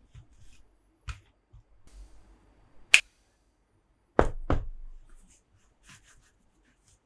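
Hands handling plastic Monster Jam toy trucks and playset pieces: scattered light clicks, a sharp click about three seconds in, then two heavier knocks about a second later, half a second apart.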